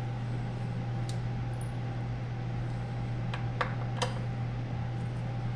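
Steady low mechanical hum, like a fan or air-conditioning unit, with a faint higher steady tone, and a few light clicks, about a second in and three more around three to four seconds in.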